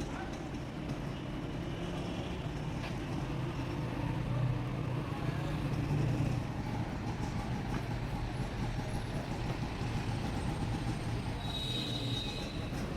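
Steady low rumble of roadside traffic, with heavy vehicles running. A brief high-pitched squeal comes near the end.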